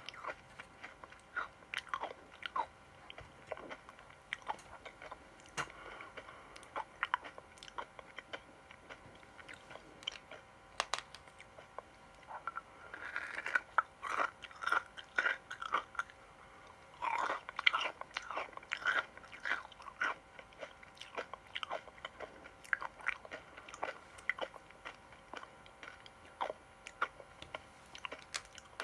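A person biting and chewing crunchy sweets close to the microphone: sharp, crisp crackles, coming thickest in two runs about halfway through.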